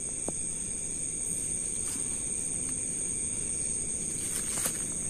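Night insects, crickets, holding a steady high-pitched chorus, with a few faint clicks.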